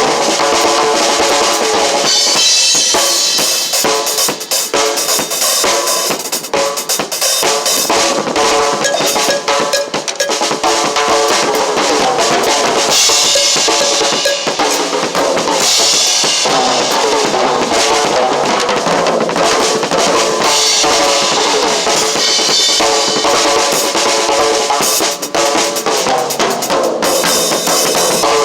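Drum kit played continuously, a dense unbroken run of strokes with stretches of cymbal wash.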